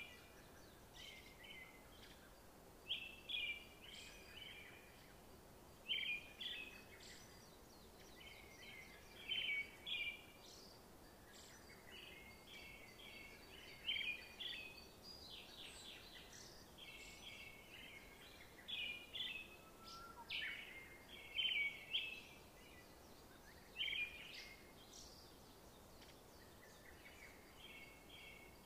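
Small songbirds chirping in short, high phrases of quick notes that recur every few seconds, over a faint steady hiss.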